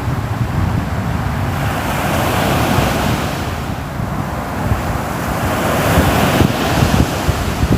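Ocean surf: waves breaking and washing in, swelling twice, over a low rumble that sounds like wind on the microphone.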